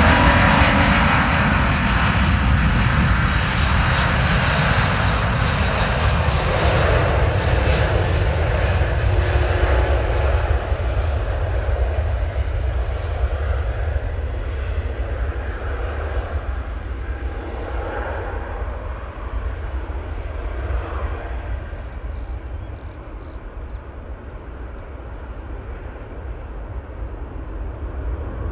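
Airbus A380's jet engines at take-off power, a loud roar that fades steadily as the airliner moves away and its higher tones die out. Near the end a few faint high chirps sound over a lingering low rumble.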